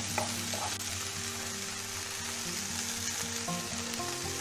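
Chopped onion, spring onion and red bell pepper sizzling in oil in a frying pan, stirred with a wooden spoon.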